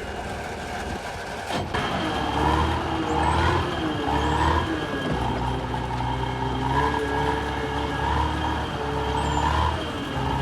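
Heavy vehicle engine running under load, its note rising and falling repeatedly, with a sharp click about a second and a half in, after which it grows louder.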